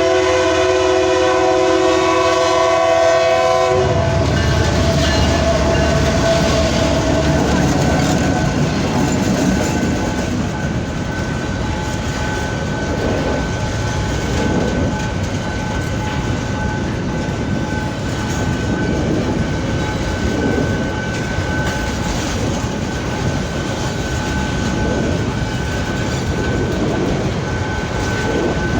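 Diesel freight locomotive sounding a multi-chime air horn in one blast of about four seconds, then the train passing the level crossing: heavy diesel rumble and the clatter of wheels over the rails. A thin steady high tone sounds throughout.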